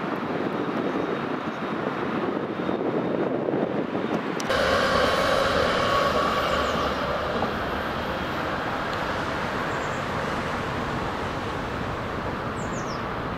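Electric trains passing: a steady rolling rumble, then, after a sudden cut about four seconds in, a red S-Bahn electric multiple unit running past with a louder rumble and a whine of several steady tones over it. Faint high squeaks come twice.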